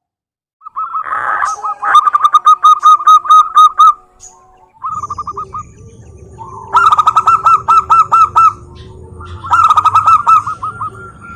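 Zebra doves cooing: three bouts of rapid, evenly repeated staccato notes, about five a second, the first starting about a second in. A faint low rumble runs underneath from about halfway.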